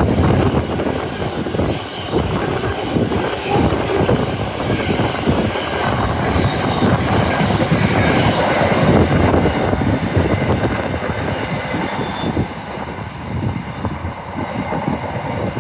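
A train passing through the station close by, its wheels running loud on the rails, the noise easing off near the end.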